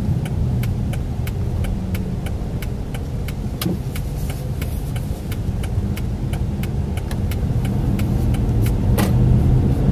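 A car driving, heard from inside: a steady low road and engine rumble with a quick run of light, evenly spaced ticks, and one sharper knock near the end.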